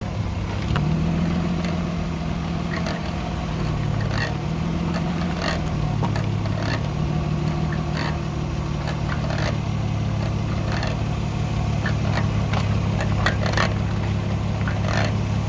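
Retrofitted UCF30 brake calipers on a JZS160 squeaking: short, high chirps about every second or so, a foreign noise that appeared a couple of days after the calipers were installed, over the car's steady engine hum.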